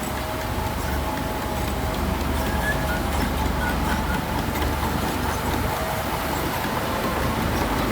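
Heavy earthmoving machinery's diesel engine running steadily under load, a low rumble with faint whining tones above it.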